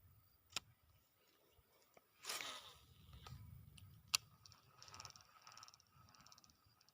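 Near silence broken by two sharp clicks and a brief rustle a little after two seconds in, with faint pulsing high-pitched sounds in the second half.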